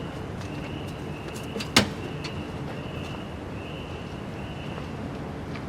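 Steady rain with scattered drips and one sharp drop or tap a little under two seconds in, while a short high chirp repeats about twice a second in the background.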